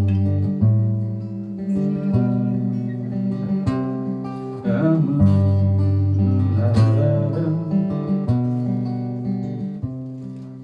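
Acoustic guitar playing an instrumental passage between verses: strummed and let-ring chords, with the bass note changing every second or two, getting quieter near the end.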